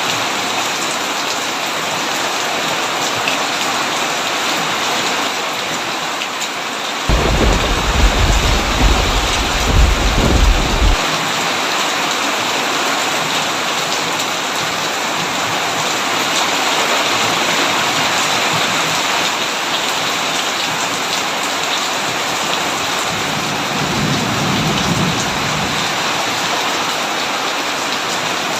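Heavy rain on a tin roof, a steady loud hiss. A loud, deep rumble of thunder breaks in suddenly about seven seconds in and lasts about four seconds, and a fainter thunder rumble follows near the end.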